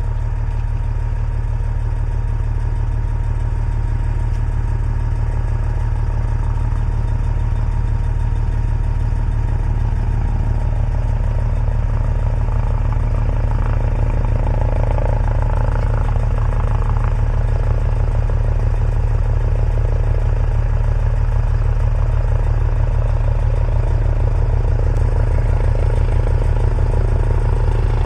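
Helicopter running close by: a steady, loud rotor and turbine noise that is heaviest in the low end and grows slightly louder toward the end.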